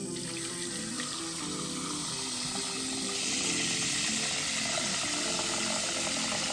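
Kitchen tap running water into a sink, a steady rushing that grows louder about three seconds in, with background music underneath.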